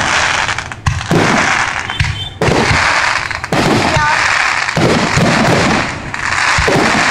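Fireworks going off: a loud bang about once a second, with a steady crackling hiss filling the gaps between them.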